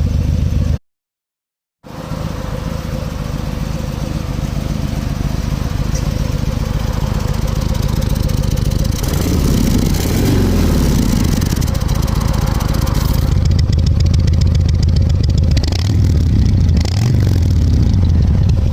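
Harley-Davidson V-twin engine running through a Jekill & Hyde exhaust, revved up and back down twice, about halfway through and again near the end. The sound cuts out completely for about a second near the start.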